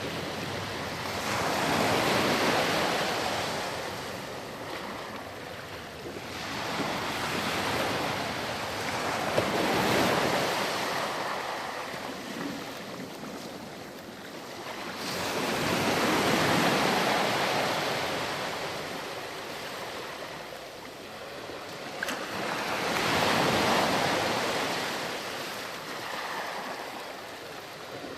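Ocean waves breaking and washing ashore, the surf swelling and fading about every seven seconds, four times.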